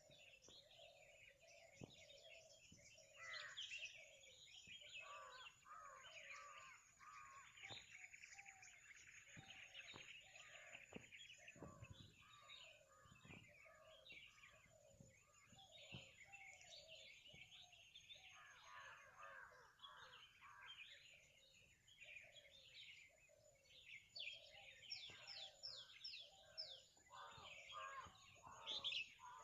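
Morning chorus of many birds calling and singing at once: quick chirps and trills higher up over a steady run of repeated lower calls.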